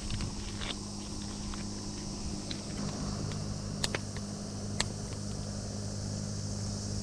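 Firewood burning in a small fire pit, crackling with scattered sharp pops, two louder ones about four and five seconds in, over a steady hiss and low hum.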